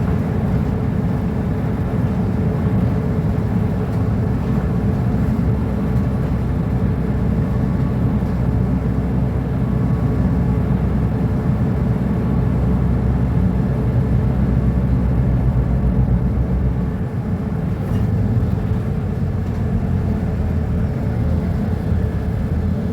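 Mercedes-Benz O-500UA articulated bus's diesel engine running steadily, with a steady low drone. The engine grows a little louder in the middle and eases off briefly about three-quarters of the way through.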